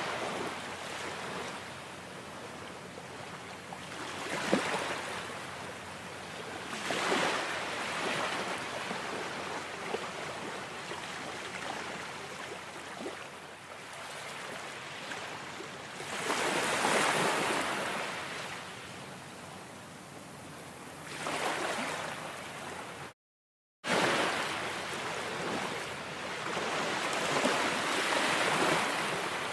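Ocean waves breaking and washing in, rising and falling in slow swells every few seconds. Near the end the sound cuts out completely for under a second, then resumes.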